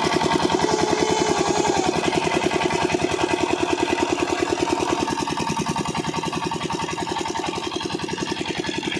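8 hp diesel engine of an irrigation water pump set running steadily, a fast even beat of firing strokes, growing slightly quieter over the second half.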